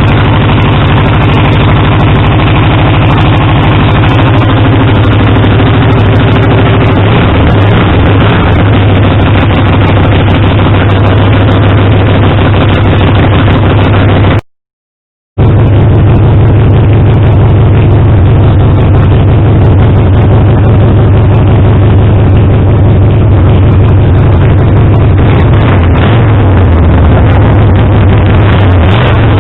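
Harley-Davidson Sportster's air-cooled V-twin engine running loud through a homemade custom exhaust system. It holds a mostly steady idle, with a few changes in engine speed, and cuts out for about a second midway.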